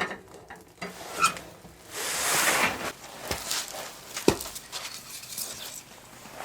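Firewood and birch bark being handled at a wood stove: light rustling, a short swell of hissing noise about two seconds in, and a couple of sharp wooden knocks.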